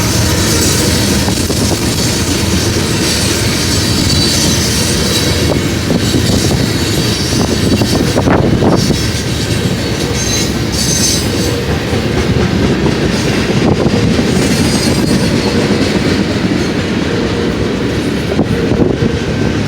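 Union Pacific manifest freight train rolling past, wheels clattering over the rails with a high wheel squeal rising and fading.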